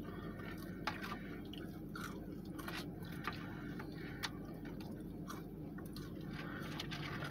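A person chewing and biting food close to the microphone, with scattered wet mouth clicks, over a steady low hum.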